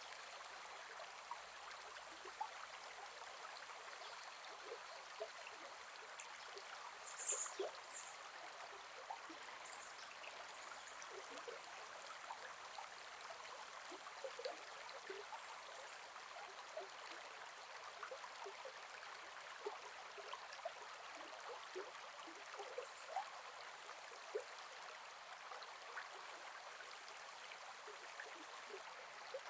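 Gentle forest river flowing: a steady soft rush of water with small trickles and splashes, and a short high-pitched sound about seven seconds in.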